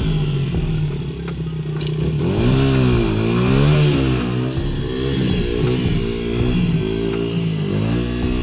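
1999 Honda CR80R's two-stroke single-cylinder engine running and being revved up and down again and again, back to life on fresh gas after years of sitting.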